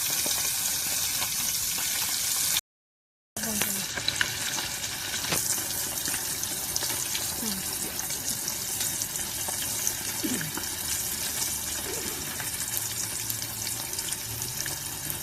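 Seasoned rice-and-beans mixture frying in a pan over a campfire: a steady sizzling hiss with scattered small crackles. The sound drops out completely for a moment about two and a half seconds in.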